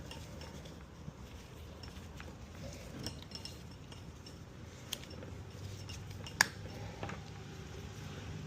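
Scattered light clicks and clinks of small hard parts and tools being handled, the sharpest about six and a half seconds in, over a low steady hum.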